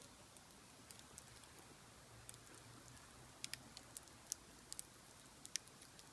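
Wood fire burning in a large iron pot: faint, irregular crackles and pops over a low steady hiss, the pops coming more often in the second half.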